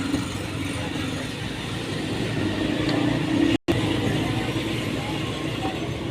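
Steady road-traffic noise of passing vehicles, with a brief gap in the audio about halfway through.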